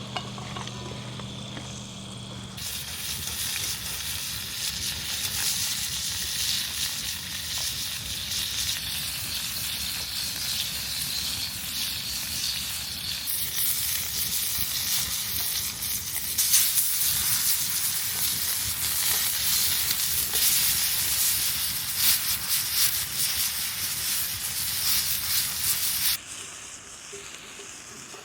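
Food sizzling in hot oil in a skillet over a campfire: a dense frying hiss with fine crackles that starts suddenly a couple of seconds in, grows louder past the middle, and stops abruptly near the end. A low steady hum comes before it.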